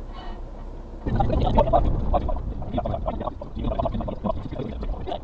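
Suzuki Carry kei truck with a 660 cc engine, heard from inside the cab on a muddy forest track. About a second in, the noise jumps suddenly to a loud, rough, uneven clatter and stays there.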